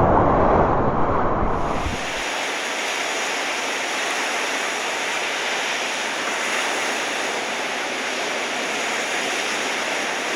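Ocean surf whipped up by a typhoon, with wind rumbling on the microphone at first; about two seconds in it changes to a steady, even hiss of breaking waves, which cuts off suddenly at the end.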